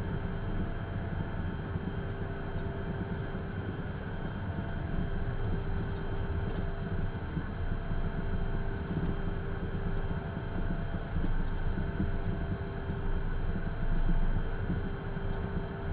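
Cockpit noise of a Beechcraft Premier light jet with its twin turbofan engines running: a steady hum and rush with a constant high whine.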